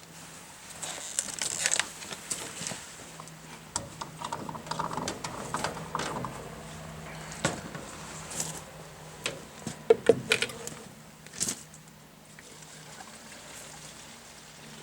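Gasoline being poured from a gas can into a pickup's fuel tank, with scattered clicks and knocks from the can and filler neck being handled, the loudest a few sharp knocks about ten seconds in. A faint steady low hum runs underneath.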